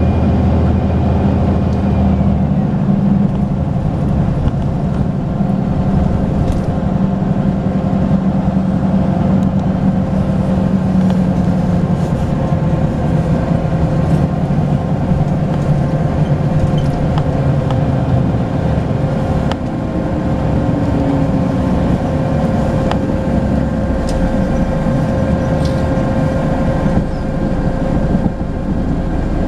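Volvo B10BLE bus's six-cylinder turbo diesel running under way through its ZF automatic gearbox, with a steady high turbo whistle over the engine note. The engine note drops about two and a half seconds in, as a higher whistle falls away, and the pitch shifts again further on; small rattles come through now and then.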